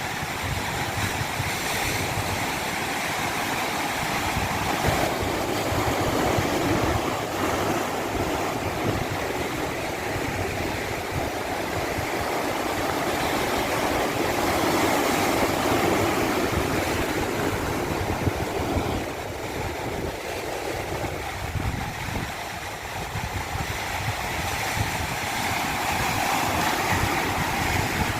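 Water of a stream cascading: a steady rushing noise that swells and eases slowly every several seconds.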